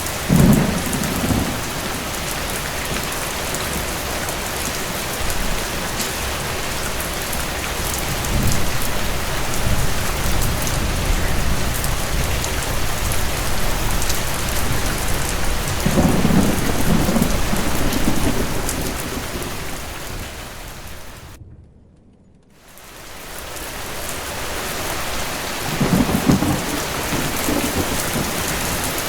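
Steady heavy rain with thunder: a sharp clap at the start, a long rolling rumble through the middle, and another clap near the end. About two-thirds of the way in, the whole sound fades almost to nothing for about a second, then swells back.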